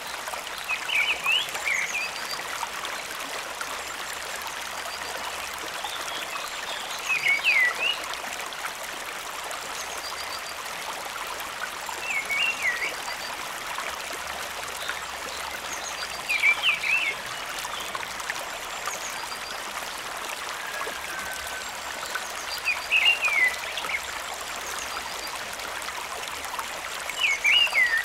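Steady rush of water from the stream and falls. A short, squiggly animal call repeats over it about every five seconds.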